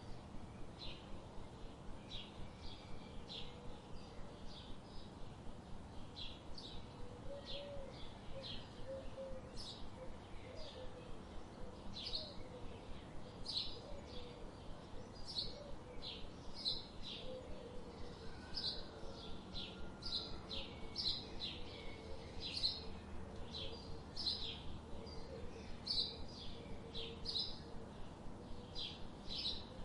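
Small birds chirping: a steady run of short, high chirps, about two a second, over faint low background noise.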